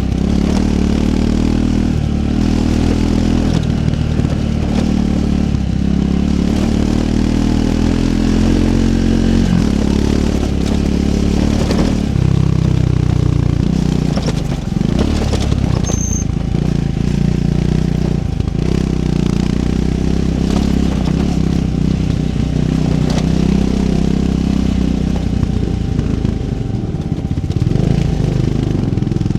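Triumph Scrambler 400 X's single-cylinder engine running off-road, its pitch rising and falling with the throttle, with occasional knocks and clatters.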